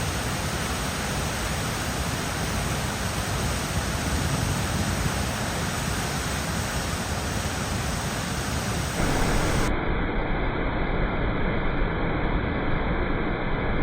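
Steady rushing noise of a waterfall. About ten seconds in it cuts abruptly to a duller, slightly louder recording of the same kind of rushing noise.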